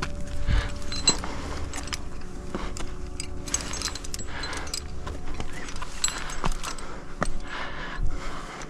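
Metal climbing gear, carabiners and hardware on a harness, jingling and clinking, with repeated clicks, knocks and rustling as the climber moves.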